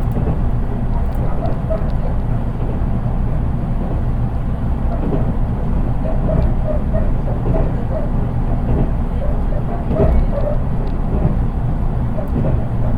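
Running noise heard inside a JR East 183 series electric train car: a steady rumble of wheels on rail with a few light knocks. It is recorded in the unpowered KuHa 183 driving trailer, so the sound is plain, without motor noise.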